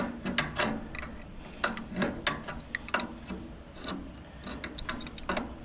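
Irregular clicks and light metallic taps of hand tools against tractor parts, several a second, as fittings on the carburetor and fuel line are worked back together.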